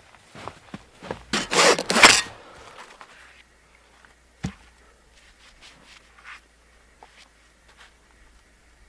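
Camp movement and handling noises: a few soft steps or knocks, then two loud rushing, scraping sounds about a second and a half in, and a single dull thud near the middle, followed by faint ticks over a low steady hum.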